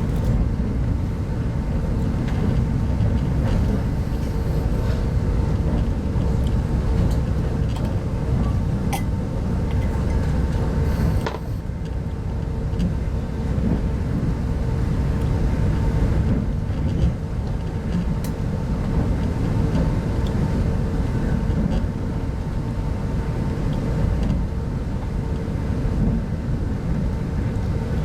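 Passenger train running at speed, heard from inside a 25T soft-seat coach: a steady rumble of wheels on track with a constant hum underneath and a few light clicks.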